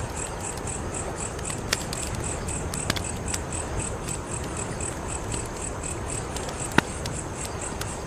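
Wood fire crackling, a steady hiss with a few sharp pops, the loudest near the end. A high chirping pulses evenly about four times a second underneath.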